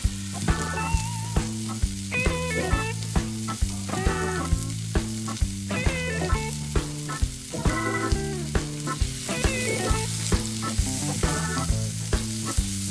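Minced garlic and shrimp sizzling in butter in a nonstick frying pan, stirred with a wooden spatula. Background music with a steady beat and bass line plays over it.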